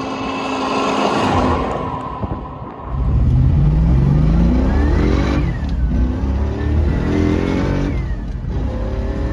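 A car's V8 engine accelerating hard through the gears. After a rougher, noisier opening stretch, the engine note climbs, drops sharply at each shift and climbs again, about three times.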